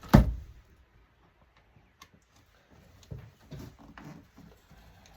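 A single heavy clunk, then a few seconds later a cluster of lighter knocks and rattles: parts of an LCD monitor being handled and pulled apart during dismantling.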